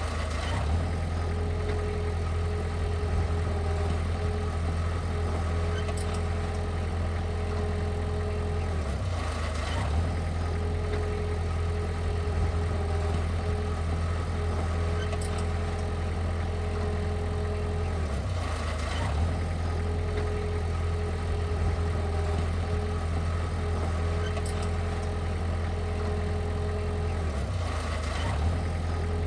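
Heavy diesel engine of earth-moving machinery running steadily, its note dipping briefly about every nine to ten seconds.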